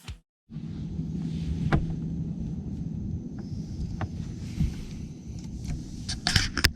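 Steady low rumble of a bass boat on the water, with a faint steady hum, a few sharp clicks and knocks, and a short cluster of louder noisy bursts near the end.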